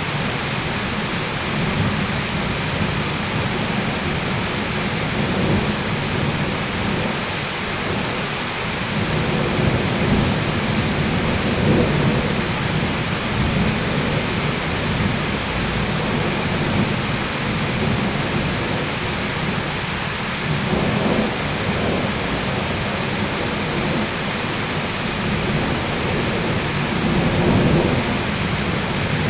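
Thunderstorm: steady heavy rain with rolling thunder that swells several times, around a third of the way in, past the middle and near the end.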